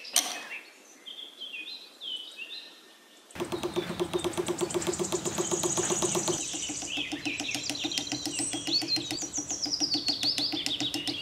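Birds chirping in short high calls. About three seconds in, a louder rapid, evenly pulsing sound with a low steady tone joins under the continuing bird calls.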